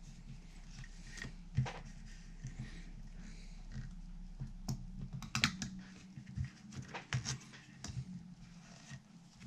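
Irregular small clicks and knocks from handling parts and tools during guitar assembly, over a steady low electrical hum that drops out about six seconds in.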